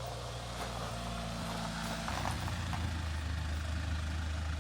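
Truck engine running at low revs. Its note changes about two seconds in and settles lower and a little louder soon after.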